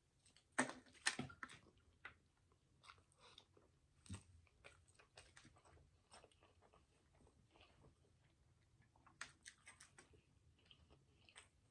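Close-miked eating of a chili cheese hot dog topped with potato chips: crunchy bites with quick crackles about half a second in, then quieter chewing, with another burst of crunching near the end.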